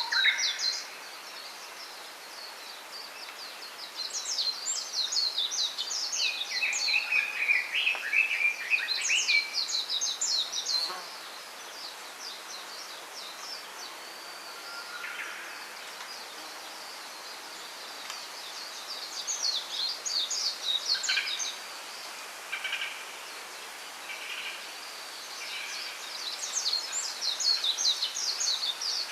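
Small songbirds singing: rapid high twittering phrases come in bursts, about four seconds in, around twenty seconds and near the end, with a lower run of chirps around seven seconds and short single calls scattered between, over a steady faint background hiss.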